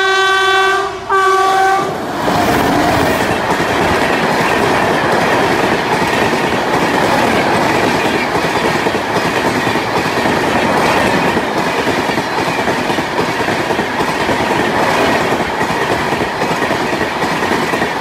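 Train horn sounding two short blasts, then a train running past with a steady rumble and the clatter of its wheels on the rails.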